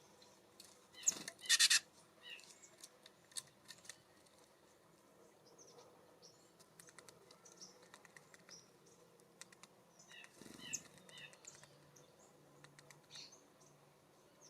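Wild songbirds at a feeder: a loud, harsh, rapidly pulsed call about a second in, then scattered short high chirps and a run of chirp notes about two-thirds of the way through, with many light clicks and taps in between.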